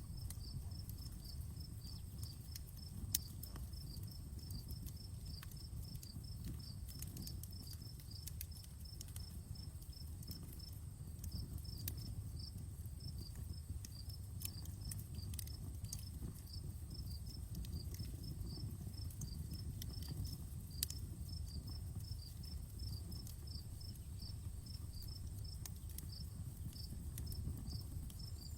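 Campfire crackling, with scattered sharp pops (two louder ones, about three seconds in and near twenty-one seconds) over a steady low rumble of burning. Crickets chirp steadily in the background, an even train of high chirps a few times a second.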